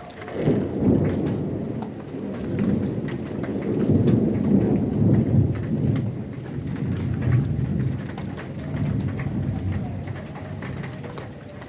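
A long roll of thunder over heavy rain: the low rumble breaks in about half a second in, is loudest around the middle, and slowly dies away toward the end, while the rain keeps falling with scattered drips.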